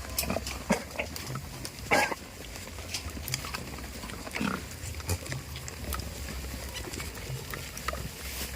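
Goats calling: a short loud call about two seconds in and a lower, falling one a couple of seconds later, among scattered small clicks and knocks from the herd.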